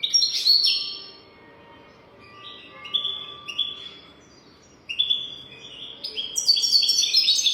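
European goldfinch singing: quick, high twittering notes in three bursts, the last one longer and louder near the end.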